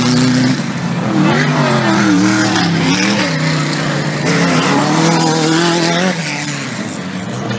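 4WD off-road race car engines revving, the pitch rising and falling every second or so as the throttle is worked. The sound eases off a little near the end.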